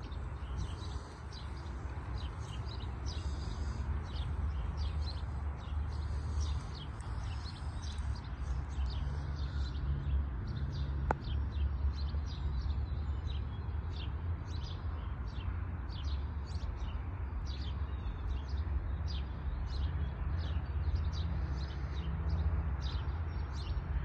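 Small birds chirping: many short, high calls, about two a second, over a steady low rumble.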